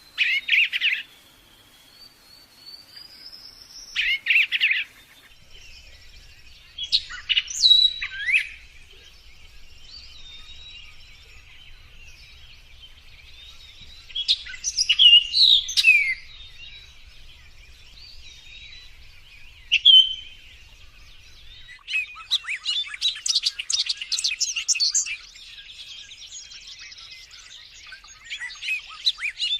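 Wild birds chirping and singing: short bursts of high chirps and whistles a few seconds apart, then from about two-thirds of the way through a long run of rapid, dense chirping.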